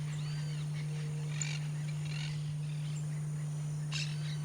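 Small songbirds giving short chirps and arched call notes a few times, over a steady low hum.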